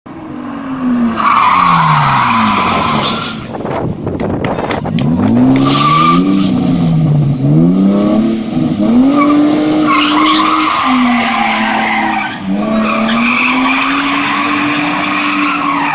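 A car engine revving up and down over and over while its tyres squeal, with a clatter of sharp clicks about four seconds in.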